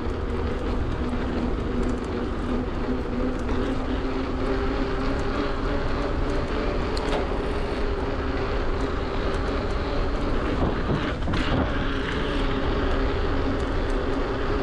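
Bafang BBSHD mid-drive e-bike motor running under way with a steady whine, over a constant low rumble of riding noise.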